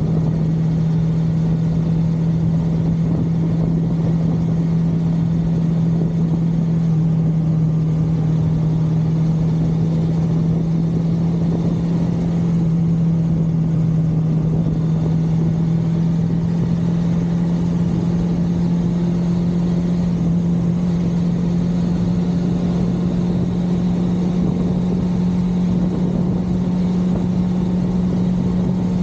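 1982 Suzuki GS550L's air-cooled inline-four engine running at a steady highway cruise, its pitch creeping slowly upward, over a steady low rumble of wind and road noise.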